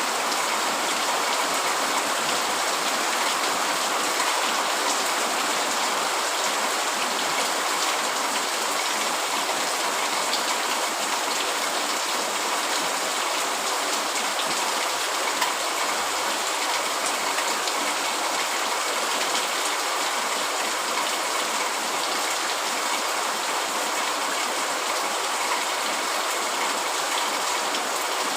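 Steady heavy rain falling and pattering on a tent.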